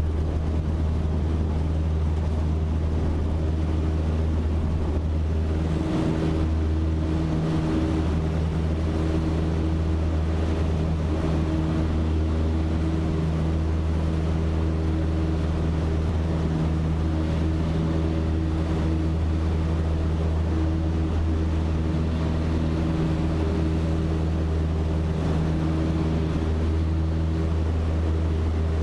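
Cessna 152's four-cylinder Lycoming O-235 engine and propeller running steadily at full take-off power, a constant drone heard from inside the cockpit as the aircraft accelerates down the runway and climbs out.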